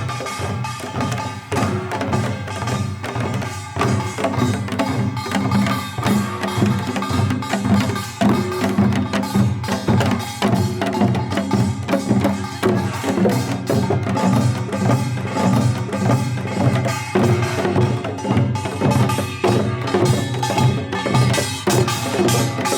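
Korean traditional music played continuously, driven by dense, fast drum and percussion strokes.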